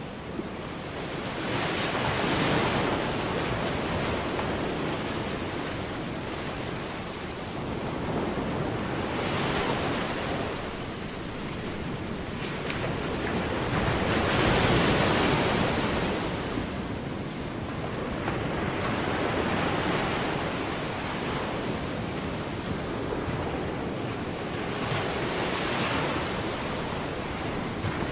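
Surf breaking on a beach, the noise of the waves swelling and falling away about every five or six seconds, with wind buffeting the microphone.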